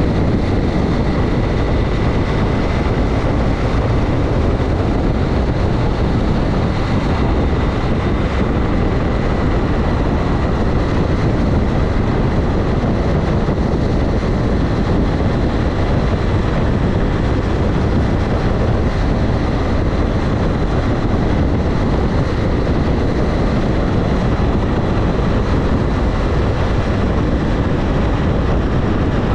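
Motorcycle riding at a steady cruise: engine drone mixed with heavy wind rush on the microphone, with a faint high whine holding steady throughout.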